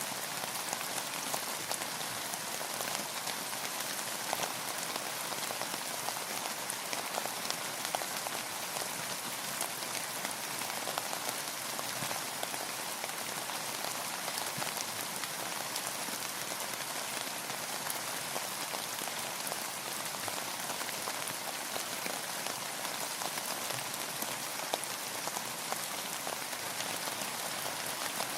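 Steady rain falling, an even hiss of many drops with fine individual drop ticks.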